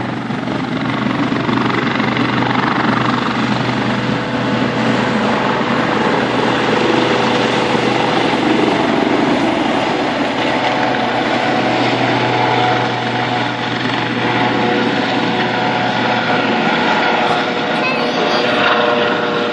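Helicopter's turbine and rotor running loud and steady as it takes off, with a low hum that drops out near the end.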